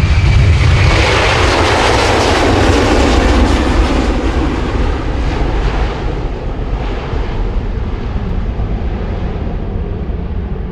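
Jet airliner's engines passing close by, loudest over the first few seconds and then slowly fading as it moves away.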